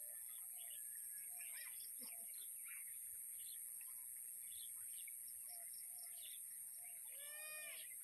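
Faint wild birds chirping and calling on and off, over a steady high hiss. Near the end a single short arching call with several overtones stands out.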